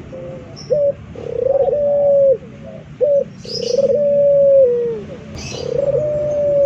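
Male puter (domestic Barbary dove) cooing in its pelung style: repeated long drawn-out coos, each falling in pitch at the end and preceded by a short sharp note, about every two and a half seconds. Faint high chirps from other small birds are heard in the background.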